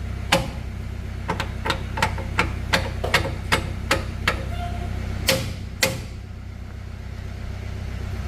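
Hammer striking metal: about a dozen sharp, evenly paced blows at roughly three a second, each with a short metallic ring, then a pause and two heavier blows. A steady low hum runs underneath.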